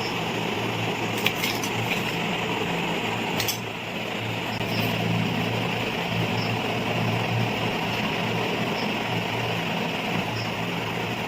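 Steady mechanical hum, with a few light clicks in the first few seconds.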